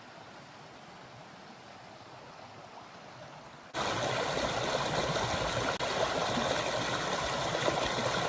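Mountain stream, a steady rush of flowing water. A little over a third of the way in it cuts abruptly to a much louder, closer rush.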